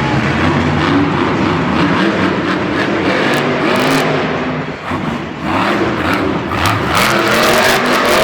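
Monster truck engine running loud and revving, easing off briefly about five seconds in and then revving back up, with a few sharp cracks near the end.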